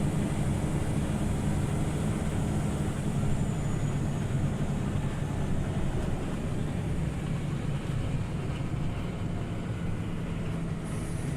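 Interior sound of a Scania OmniLink CL94UB city bus under way: a steady low engine and drivetrain drone with road noise in the cabin.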